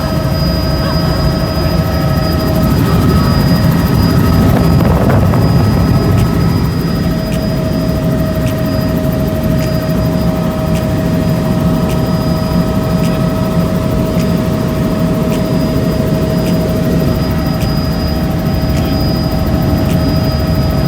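Helicopter in flight, heard from aboard: a steady, loud rotor and engine rumble with a constant high whine over it.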